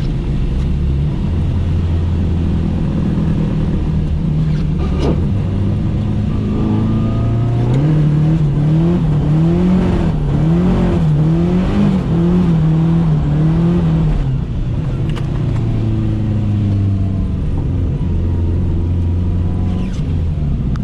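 Nissan 240SX (S13) drift car's engine running, heard from inside the car. Midway it revs up and down repeatedly, about once a second for several seconds, between steadier stretches with a few steps in pitch.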